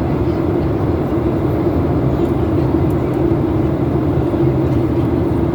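Boeing airliner cabin noise on the descent to landing: a steady low rumble of engines and airflow with a constant hum running through it.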